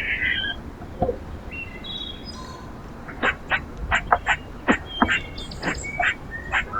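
Small birds at a feeder giving short chirps and call notes. About halfway through comes a quick run of sharp clicks and taps, several a second.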